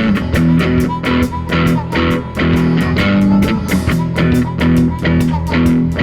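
Music: guitar-led band playing an instrumental passage, with bass and a steady beat of about four to five strokes a second.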